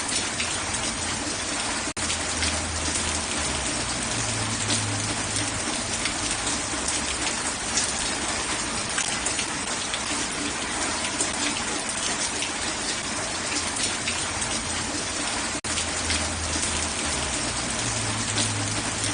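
Heavy, steady rain pouring down in a dense hiss, with a low rumble coming in twice and the sound dropping out for an instant twice.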